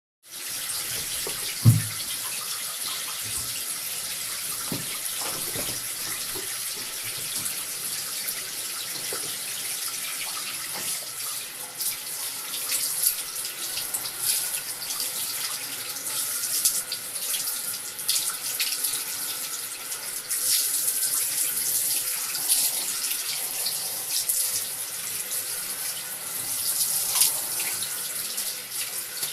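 Water running from a tap, a steady rush that swells and dips unevenly, with one short low knock about two seconds in.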